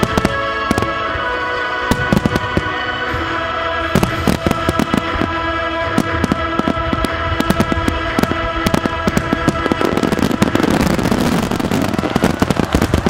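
Aerial fireworks shells bursting in rapid succession over music. About ten seconds in, the bursts come so thick that they merge into a dense barrage, the loudest part.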